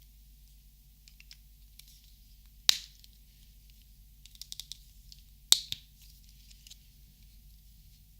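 Two sharp plastic clicks from handling Copic markers, about three seconds apart, with a quick run of light ticks between them.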